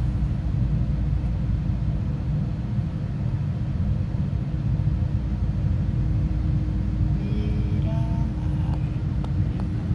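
Steady low rumble of a passenger train in motion, heard from inside the carriage, with a constant hum over it.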